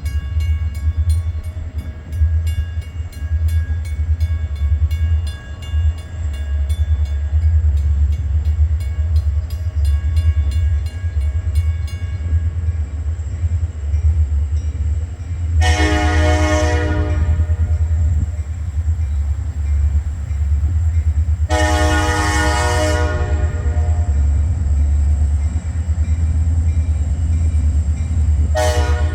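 Diesel freight locomotive's air horn blowing two long blasts and then a short one, the opening of the long-long-short-long grade-crossing signal, over the steady low rumble of the locomotive. For about the first twelve seconds a bell dings rapidly and evenly.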